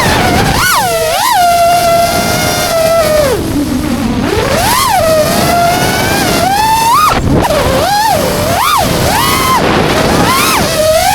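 Brushless motors of an FPV freestyle quadcopter whining. The pitch sweeps up and down over and over as the throttle is punched and eased, sinking low about four seconds in, then rising in a run of quick surges.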